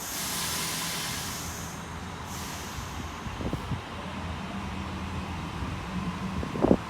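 Sydney Trains Waratah (A set) electric train pulling away, a steady low hum from its running gear, with two bursts of air hissing in the first three seconds. A short sharp knock near the end.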